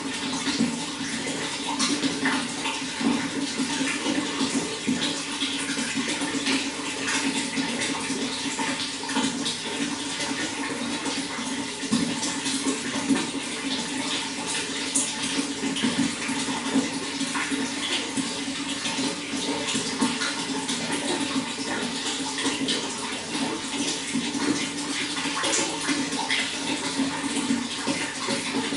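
Running water flowing and splashing steadily, a continuous rushing with many small splashes.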